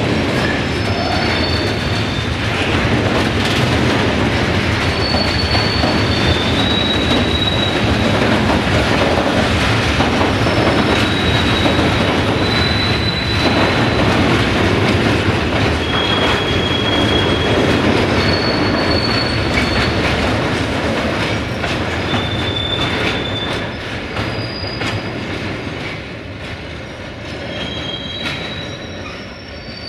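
Railway tank wagons rolling past: a steady rumble and wheel clatter, with short high-pitched wheel squeals every second or two. The sound fades over the last several seconds as the tail of the train draws away.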